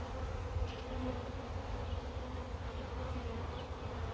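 A swarm of honey bees buzzing steadily.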